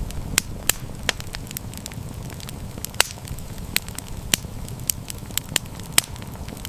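Wood fire burning with a steady low rumble and irregular sharp crackles and pops, a few of them louder.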